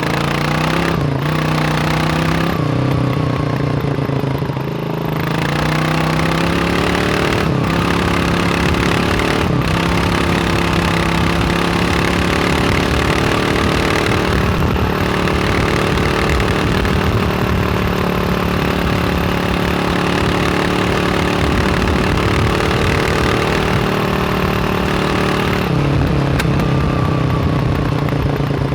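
Kawasaki KLR 600 single-cylinder four-stroke engine under way. Its pitch climbs and steps with several gear changes in the first ten seconds, holds steady at cruising speed, then drops about 26 seconds in as it slows.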